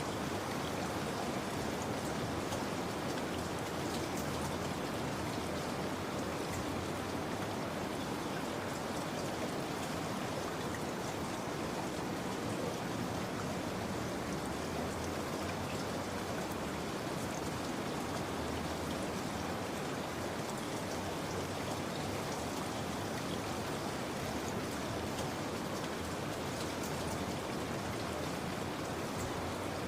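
Steady rainfall: an even hiss of rain with scattered faint drops, holding the same level throughout.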